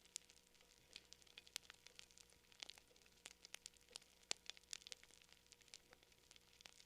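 Campfire crackling faintly: irregular sharp pops and snaps, several a second, over a soft hiss.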